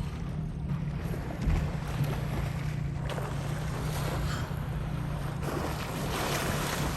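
Wind buffeting the microphone over a steady low hum, with one thump about a second and a half in.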